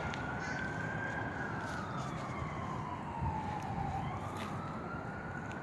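Emergency-vehicle siren in a slow wail, its pitch holding high, sinking over a couple of seconds and climbing back near the end, over a steady low rumble of traffic.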